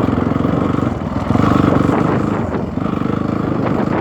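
Dirt bike engine running under way, its revs dipping briefly about a second in and again near three seconds.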